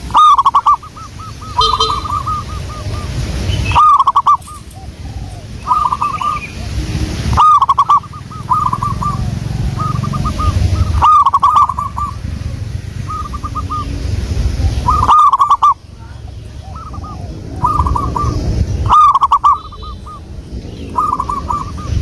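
Zebra doves (perkutut) cooing: each loud phrase opens with a strong coo and runs into a quick string of bubbling notes, recurring about every four seconds, with quieter phrases between them. A low rumble runs underneath.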